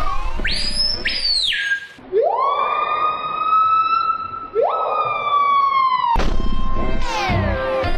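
Siren-like wailing: two short high rising whoops, then two longer wails that each climb and hold a steady pitch for about two seconds. A different repeating patterned sound takes over near the end.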